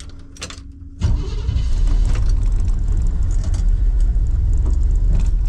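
Chevrolet K5 Blazer engine catching and starting about a second in, after a few light clicks, then running with a steady low rumble.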